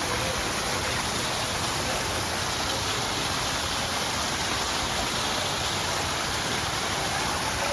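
Steady rushing of water, an even hiss that holds without a break.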